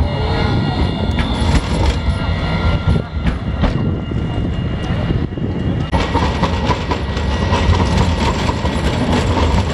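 Alstom Citadis tram running on its rails, with a steady rumble and several steady high whining tones. The sound changes abruptly about six seconds in.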